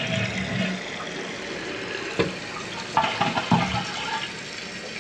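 Toilet tank refilling through a newly installed fill valve: water hissing and running into the tank, with a short sharp click about two seconds in.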